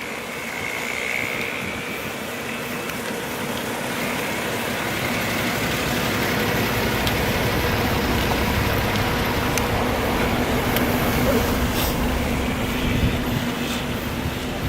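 A motor vehicle running, a steady rumble with faint engine tones that swells slowly toward the middle and eases off near the end.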